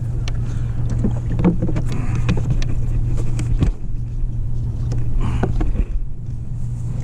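Boat engine idling with a steady low hum and scattered clicks and knocks, as a throttle cable just reattached with a bolt and nut is tested.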